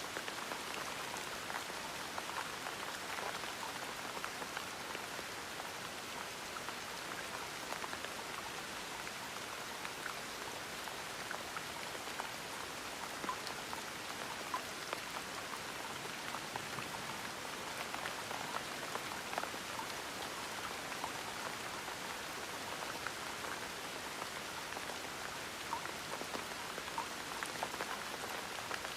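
Steady gentle rain falling on a surface, with a dense patter of individual drops.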